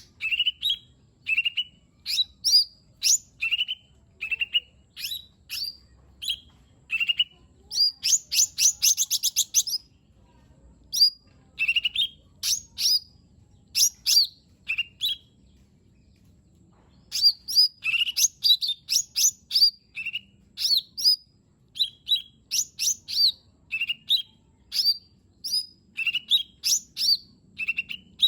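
Lesser green leafbird (cucak ijo mini) singing: quick runs of sharp, sweeping chirps and whistles with a fast trill about eight seconds in, broken by brief pauses.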